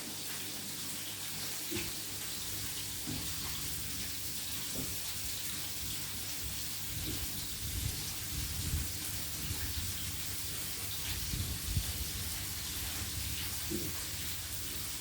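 Steady sizzle of food frying in oil in a pan, with a few faint knocks of handling in the kitchen.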